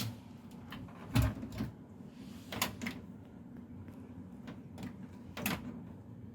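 Clicks and knocks from a washing machine being handled, with one heavier thump about a second in and a few sharper knocks after it, over a faint steady hum.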